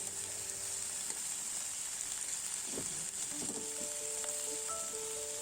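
Chicken strips sizzling in a hot skillet, a steady frying hiss. Soft background music with held notes plays over it, coming in more strongly about three seconds in.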